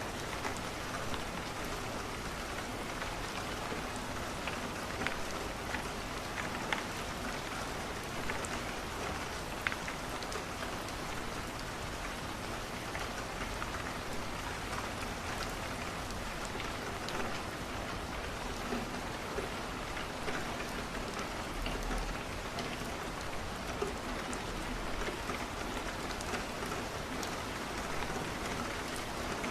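Steady rain pattering on a window pane, with occasional sharp ticks.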